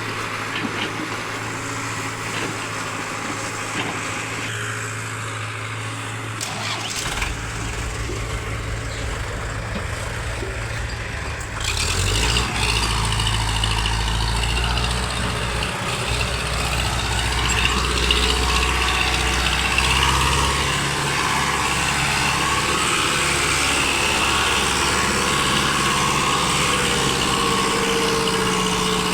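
Heavy diesel engine running, growing louder about twelve seconds in and holding there.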